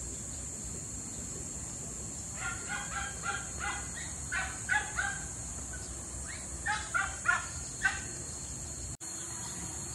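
A bird calling in short, repeated notes, in three bouts between about two and eight seconds in, over a steady high insect hiss.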